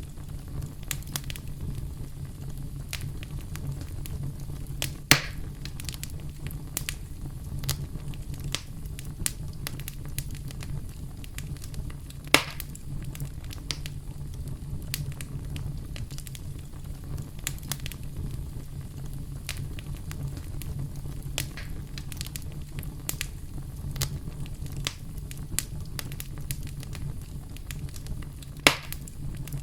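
Wood campfire burning, with constant small crackles over a steady low rumble. Three louder pops of wood snapping stand out, one about five seconds in, one near the middle and one near the end.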